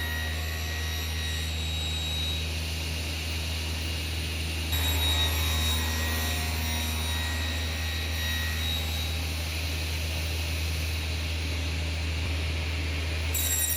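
Woodworking machinery running steadily, a continuous low roar, stepping up slightly in loudness about five seconds in.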